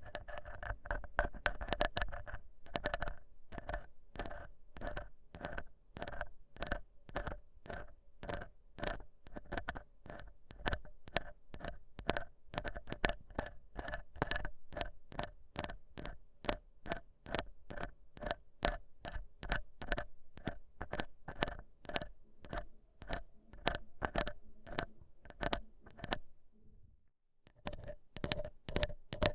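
Ear pick scraping and scratching in repeated short strokes, about two to three a second, with a brief pause near the end.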